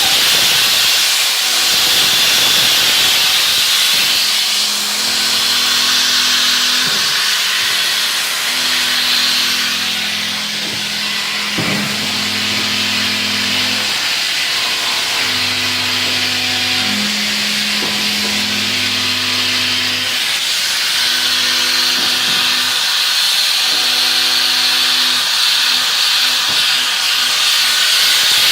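CNC milling machine cutting at high speed: a steady high hiss from the spindle and cut, over low steady motor hums from the axis drives that switch on and off every second or two as the table moves.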